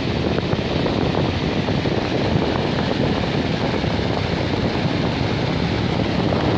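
Box fan running steadily, its airflow blowing across the microphone as a constant rush of wind noise.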